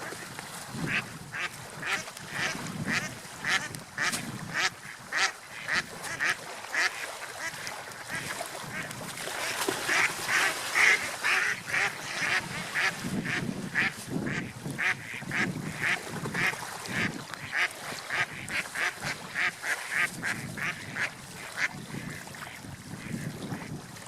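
Ducks quacking in a long series of short calls, about two to three a second, busiest and loudest around the middle and stopping shortly before the end.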